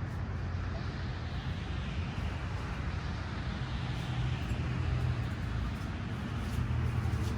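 Road traffic: a steady low engine rumble with tyre hiss from passing vehicles.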